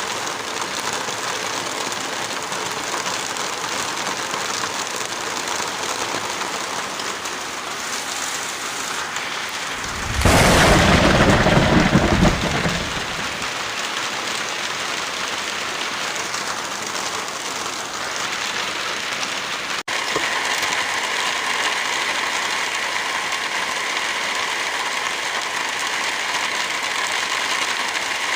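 Steady heavy rain hiss. About ten seconds in, a louder burst with a deep rumble lasts about two seconds and stops abruptly. Near twenty seconds there is a sudden brief dropout, after which the rain sound continues with a slightly different texture, like a splice between recordings.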